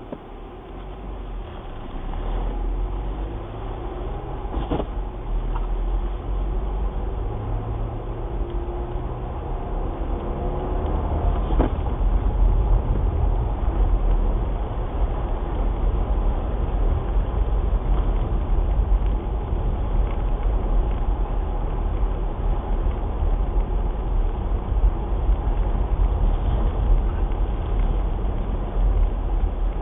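Skoda Kodiaq's cabin noise while driving: a steady low rumble of engine and tyres that grows louder over the first dozen seconds as the car picks up speed, with the engine note rising briefly and a couple of sharp clicks.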